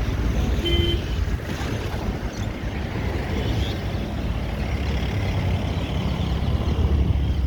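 Cold wind rumbling steadily on the microphone with road traffic noise, and a short single beep, like a vehicle horn, about a second in.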